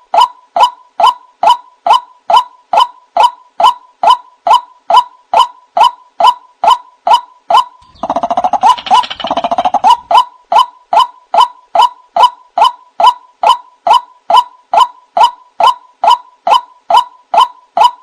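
White-breasted waterhen calling: one note repeated monotonously about three times a second, broken about halfway through by a harsher, denser burst of about two seconds. It is the call by which the bird summons others of its kind.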